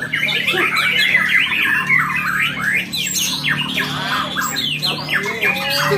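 White-rumped shama (murai batu) singing without a break: a rapid, varied stream of quick sweeping whistled notes.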